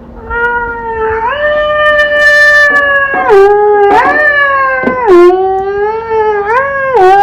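Cartoon cat caterwauling in one long, loud yowl made of held notes that step up and down in pitch, breaking off shortly after the end.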